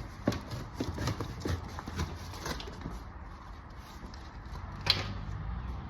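Tin of body filler being stirred up before mixing: a run of light, irregular knocks and taps against the tin, then one sharper click near the end.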